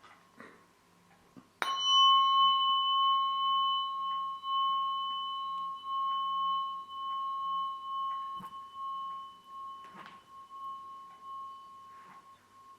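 A tuning fork is struck about a second and a half in and rings one clear, high tone with a fainter higher overtone. Its loudness wavers as it slowly dies away.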